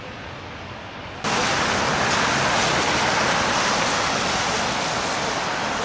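Steady hiss of street traffic on snowy, slushy roads, jumping suddenly louder about a second in and then holding level.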